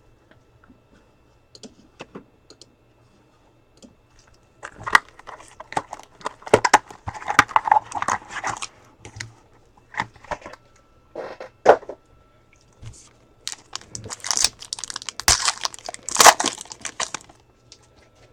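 Plastic wrapping crinkling and tearing in bursts, with sharp clicks, as sealed packaging of trading cards is ripped open.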